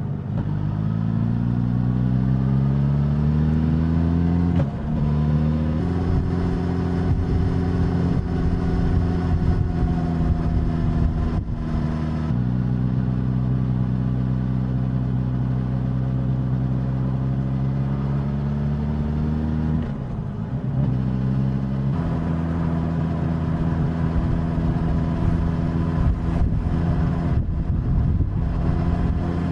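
Suzuki GSX-S1000's inline-four engine and exhaust heard from the bike while riding: the revs climb over the first few seconds and drop at gear changes about five and six seconds in. Then it holds mostly steady revs, with further changes in engine note around twelve and twenty seconds in.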